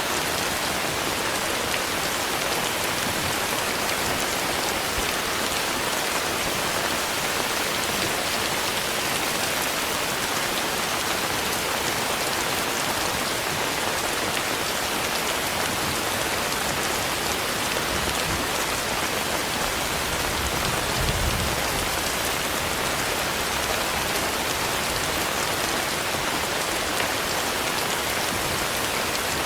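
Steady rain falling, a dense even patter, with a brief low rumble about two-thirds of the way through.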